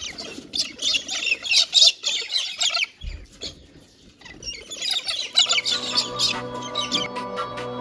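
A flock of small birds chattering and chirping in quick, busy bursts. Background music fades in about five and a half seconds in.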